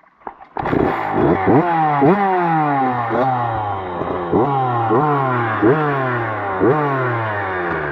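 Dirt bike engine starting about half a second in and then revved in repeated quick throttle blips, about one a second, each rising fast and falling back slowly.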